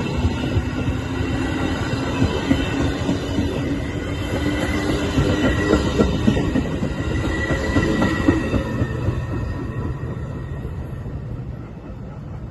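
Metra commuter train running past on the tracks, with rapid wheel clicks, held tones of the kind wheel squeal makes, and the sound fading away over the last few seconds.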